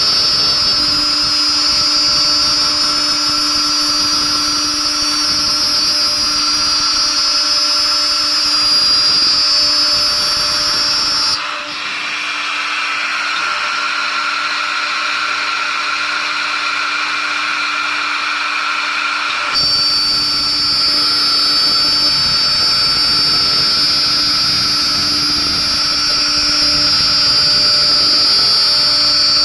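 CNC router spindle running with a steady high-pitched whine over a noisy rumble. About a third of the way in, the sound switches abruptly to a higher, thinner tone with no low rumble, and about two-thirds through it switches back just as abruptly.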